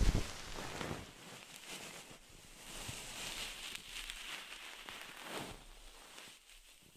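Soft rustling and brushing noises made close to a microphone, rising and fading in slow swells, with a low thump right at the start.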